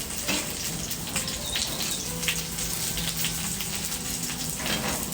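Food frying in hot fat in a pan, a steady sizzling hiss with scattered small pops.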